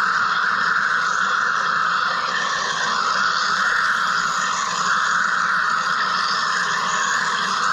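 Wire EDM machine cutting, giving a steady, unchanging hiss.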